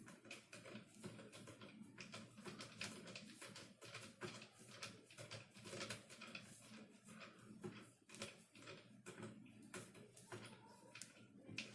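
Faint, irregular clicks and taps of 3D-printed plastic gun parts being handled and fitted together, a few a second.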